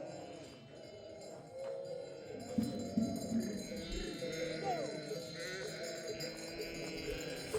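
A flock of sheep bleating, many calls overlapping, with a few dull knocks about a third of the way in.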